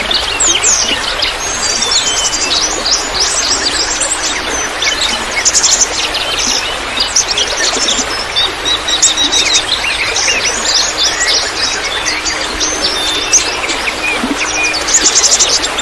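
Several songbirds chirping and trilling busily, over a steady trickle of running water.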